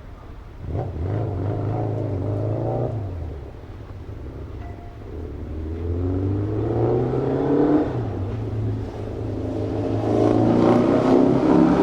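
Motor vehicles in street traffic, engines accelerating as they pass one after another: one comes in about a second in, a second rises in pitch midway, and the loudest one swells near the end.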